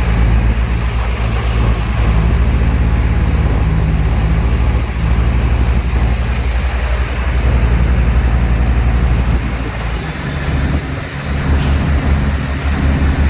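Heavy diesel engine of earthmoving machinery running with a deep, steady drone; its note changes about ten seconds in.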